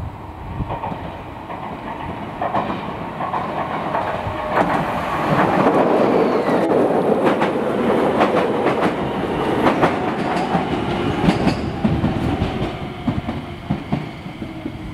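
Red Enshu Railway electric train passing close by, its wheels clacking over the rail joints. The sound builds about four seconds in, is loudest in the middle, then fades as the train moves away.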